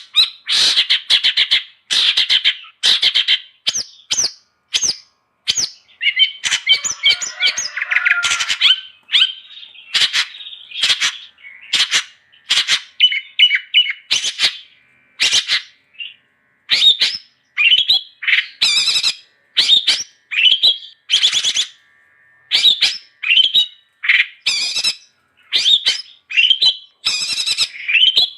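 Long-tailed shrike (cendet) singing loudly in a rapid, nonstop series of short, harsh chattering notes. A longer warbled passage comes about a quarter of the way in.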